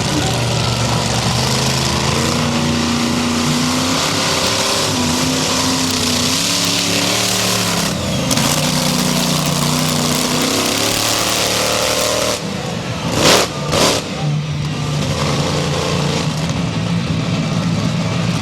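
Monster truck engine running and revving, its pitch rising and falling repeatedly over a loud, noisy background. About two-thirds of the way through come two brief, very loud bursts.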